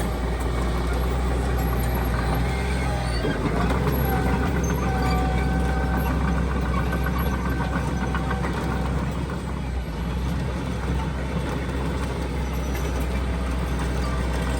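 Heavy diesel earthmoving machinery running steadily under a low engine drone, with a thin higher whine that comes in about four seconds in and fades out about five seconds later.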